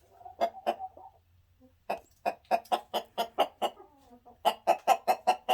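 Ameraucana chicken clucking: two short clucks, then a long run of sharp, evenly spaced clucks at about four a second. After a short pause about halfway through, a second such run follows.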